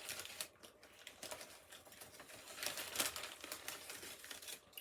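Fast-food wrappers and food being handled: irregular crinkling and crackling with many small clicks.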